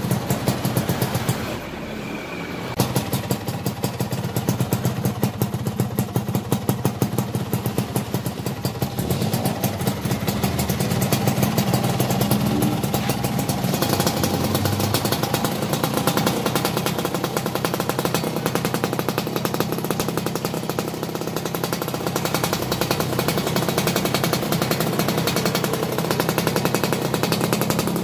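Suzuki Satria's single-cylinder two-stroke engine running through its rebuilt stock muffler, repacked with white glass wool and keeping the standard baffle, with rapid, even exhaust pulses. It dips briefly about two seconds in, then runs louder through the middle.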